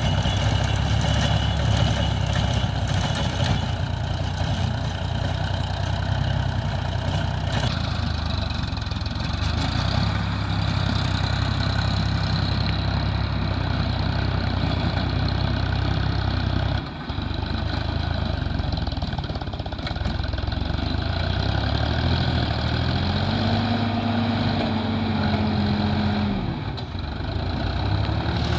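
Sonalika DI-35 tractor's diesel engine running steadily while working a rotavator. About three quarters of the way through, the engine pitch rises and then falls back once.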